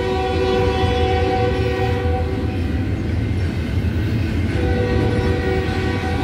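Freight train of double-stack container cars running past with a steady low rumble, while the distant lead locomotive's horn sounds a long multi-note chord. The horn fades out about two and a half seconds in and comes back about four and a half seconds in.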